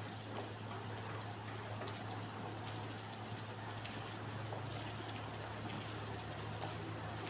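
Steady rain falling, a continuous even hiss with faint scattered drop ticks. A steady low hum runs underneath.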